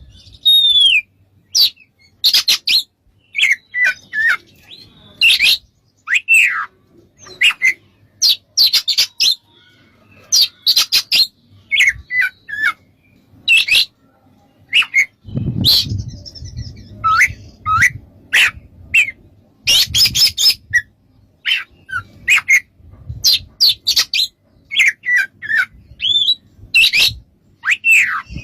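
Oriental magpie-robin singing in full song: phrase after phrase of harsh, scratchy notes mixed with clear whistles that slide downward, with short gaps between phrases. A low rumble sits under the song about halfway through.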